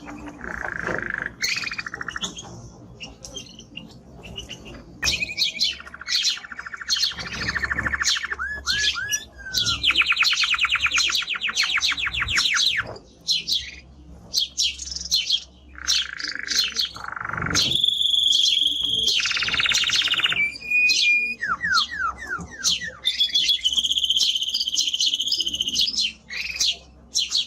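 Male timbrado canary singing a long, nearly unbroken song of rapid trills and rolls, switching from one repeated note to another every second or two.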